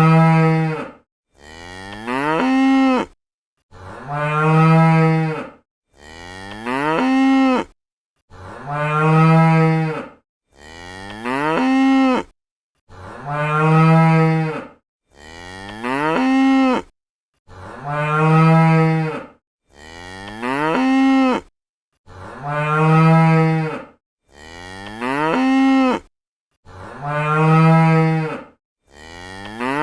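Domestic cow mooing over and over, about one moo every two seconds with short silent gaps between them. The moos come in a repeating pattern, with the same two calls alternating: one that bends up and down in pitch and one that holds a low, steady pitch.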